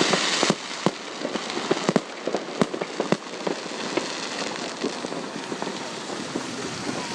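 Fireworks going off: a quick string of sharp pops and bangs over a steady crackling hiss, the bangs thinning out after about three seconds while the crackle goes on.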